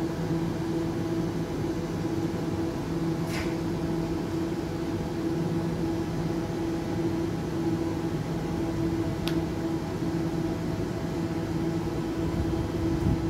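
Elizabeth line Class 345 electric train standing at the platform, giving a steady hum with a low tone and a second tone about an octave higher. There is a brief hiss about three seconds in and a faint click later, and a thump at the very end.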